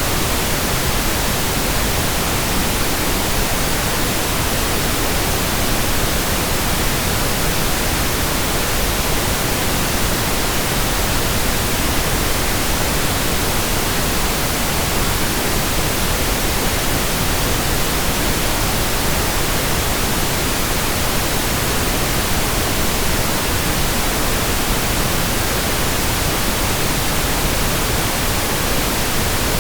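Steady synthetic pink noise, an even hiss spread across all pitches, unchanging throughout.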